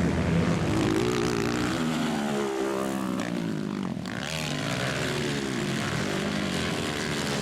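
Several 160cc dirt bikes racing, their engines revving up and easing off, with a number of overlapping engine notes rising and falling in pitch.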